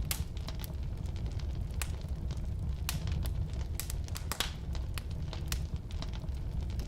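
Firewood burning in a fireplace: frequent irregular sharp crackles and pops over a steady low rumble.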